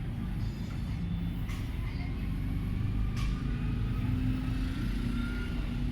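Steady low motor-vehicle rumble, with an engine note that rises slightly in pitch over the last couple of seconds.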